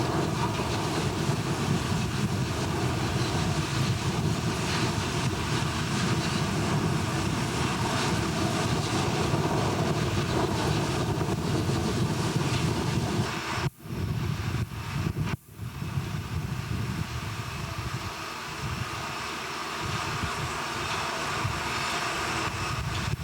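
Loud, steady mechanical drone of heavy machinery at a blast furnace rebuild, with a constant hum of several steady tones. It cuts out sharply twice, about two-thirds of the way through.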